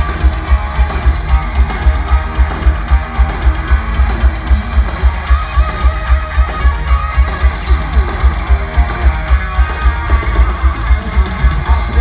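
Heavy metal band playing live: distorted electric guitar over bass and drums, with no vocals. A steady kick-drum beat of about four hits a second drives it.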